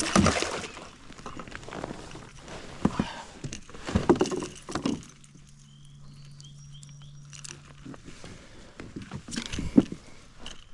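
Scattered knocks and rustles of a landed bass being handled in a kayak, the sharpest knock near the end. A low steady hum runs for about three seconds in the middle, with a few faint high chirps over it.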